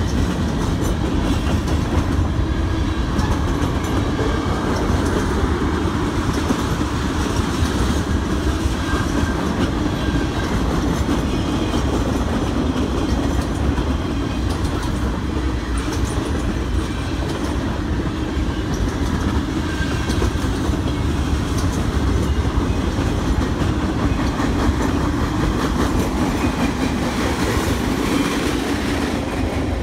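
Freight train cars rolling past, a steady rumble of steel wheels on rail as the train slows to take a siding.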